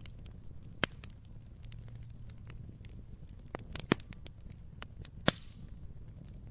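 Wood fire crackling, with scattered sharp pops, the loudest about a second in and twice in the last couple of seconds, over a low steady rumble.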